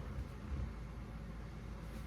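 Quiet room tone: a low steady hum with a faint even hiss, and a small faint sound about half a second in.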